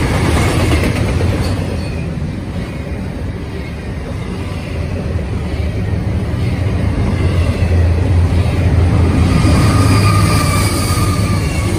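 Double-stack intermodal freight cars of a Norfolk Southern train rolling past with a steady rumble. Near the end it grows louder as a mid-train diesel locomotive passes, with a faint high wheel squeal.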